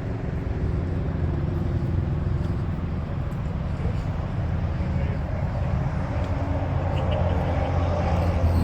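A big diesel truck engine idling nearby: a steady low hum that gets a little louder near the end.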